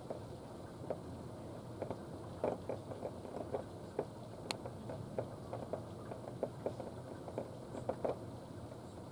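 Rain falling as irregular drips and pattering drops over a steady low hiss, with one sharp click about four and a half seconds in.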